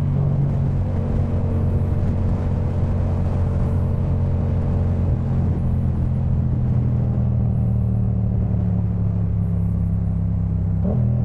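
Yamaha MT-07's 689 cc parallel-twin engine through a Jeskap K4 full aftermarket exhaust, running at a steady cruise with its pitch holding level and a brief change near the end.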